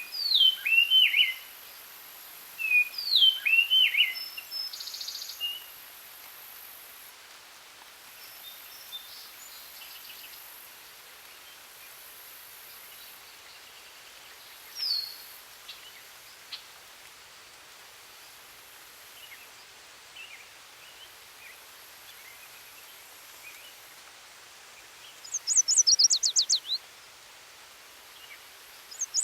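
Songbirds singing in woodland. Two short phrases of sharply falling whistled notes come at the start, a lone note about halfway, and two fast trills near the end, all over a steady faint hiss.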